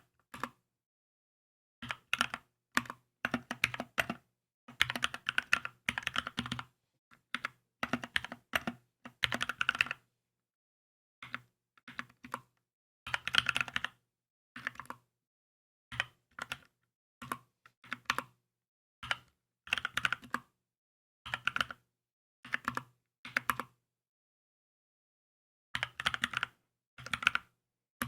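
Typing on a Keychron K2 mechanical keyboard: quick runs of keystrokes in short bursts, separated by brief pauses, with a longer pause a little before the end.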